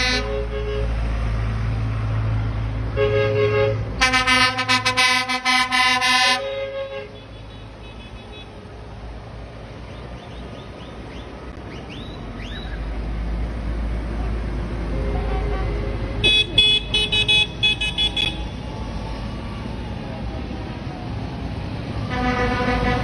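Tractor horns honking in long blasts over the first six seconds or so, then the low rumble of tractor engines as they pass, with more horn sounds near the end.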